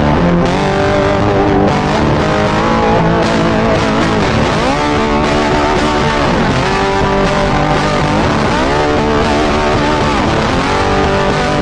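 Guitar-led music over a Harley-Davidson Sportster 1200 motorcycle engine running under way. The engine's pitch dips and climbs again twice.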